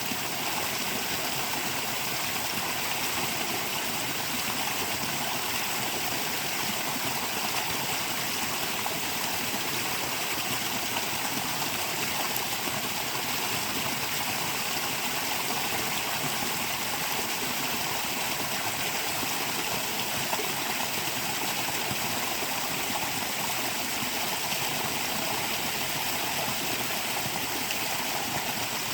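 Steady, unbroken rush of a flowing stream.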